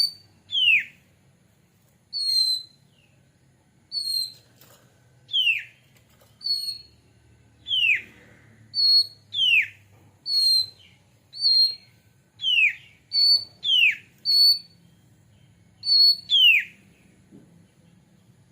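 Oriental magpie-robin (kacer) singing a repeated phrase of clear whistles: a short high, level note alternating with a loud whistle that slides steeply down in pitch, about one note every second.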